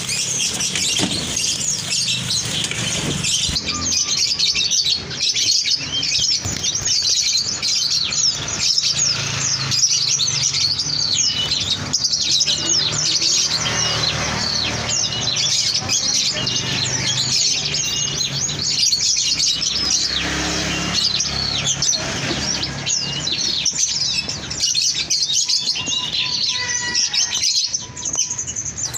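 Many caged songbirds chirping and twittering at once, a dense, continuous chorus of quick high chirps and trills.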